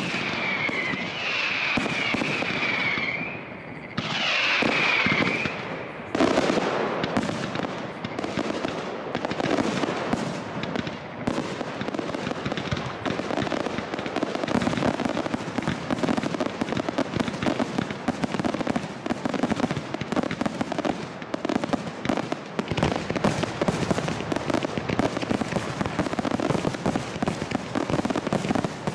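Professional fireworks display: for the first few seconds high wavering whistles over scattered launches, then from about six seconds a dense, unbroken barrage of launches and bursting shells with crackling.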